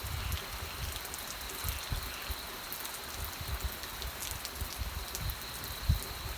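Steady rain falling, an even hiss with scattered drops thudding irregularly onto a nearby surface.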